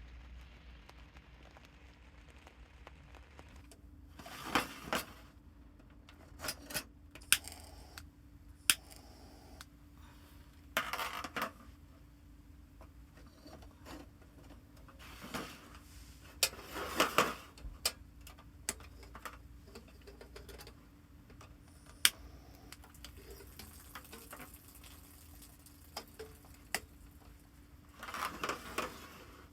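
Camp gear being handled: scattered sharp clicks and light clatter, with a few brief rustles.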